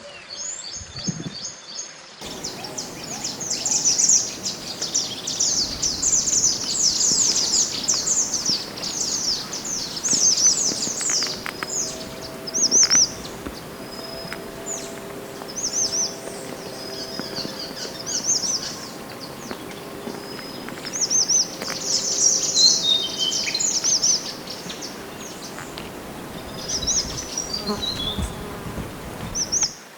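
Mantenan songbird (pied bushchat) singing: rapid, high chattering trills in repeated phrases with short pauses, including a falling run of notes near the end.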